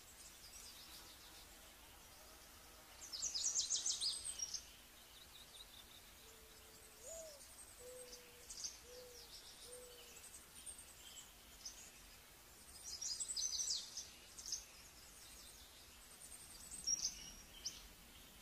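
Forest birds calling: two bursts of rapid, high-pitched chattering notes, with scattered thin chirps between them. In the middle comes a short series of four soft, low hoots, the second one rising.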